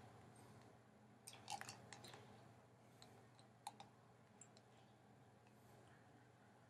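Faint eating sounds from a jar of peaches eaten with a fork: a quick cluster of small clicks and smacks about a second in, then a few single clicks.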